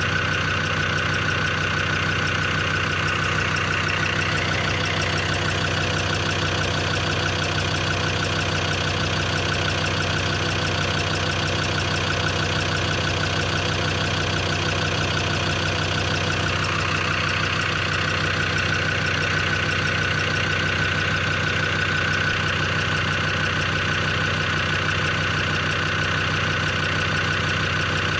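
Land Rover Defender TD5 five-cylinder turbodiesel idling steadily, with a fast, even ticking and tapping in the engine. The owner has not traced it and wonders whether it comes from the injectors, since oil pressure is good and the hydraulic lifters hold pressure.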